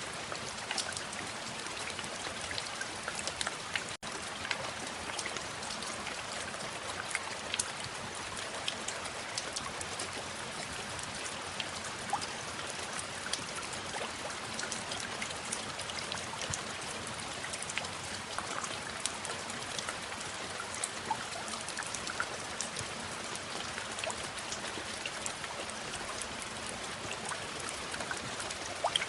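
Steady rainfall, with many small drops ticking and pattering throughout.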